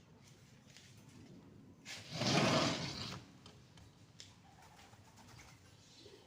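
A single rustle lasting about a second, about two seconds in, over faint room noise.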